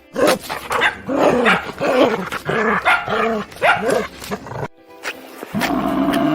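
A dog barking over and over, about two barks a second for roughly four and a half seconds. After a short break, a different long, steady animal call begins near the end.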